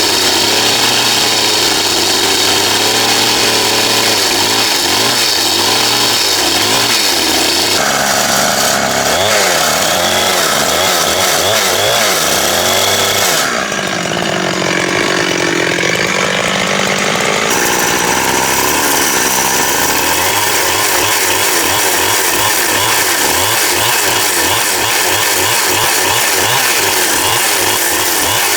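Chainsaw running and cutting timber. Its sound changes abruptly about 8 seconds in, again about 13 seconds in, and once more a few seconds later.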